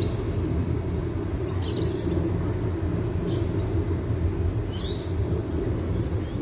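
Train passing with a steady low rumble, with short high chirps every second or two.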